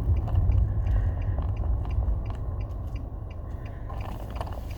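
Car engine and road noise heard inside the cabin, a low rumble that dies away as the car slows. Faint small mechanical ticks repeat through it several times a second.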